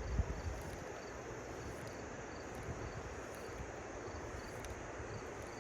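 Steady rush of flowing river water, with wind rumbling on the microphone near the start. An insect chirps faintly and evenly, about three chirps every two seconds.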